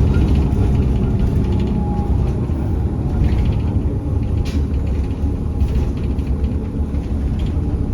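Steady low rumble of a moving public-transit vehicle heard from inside, with a few faint clicks and rattles.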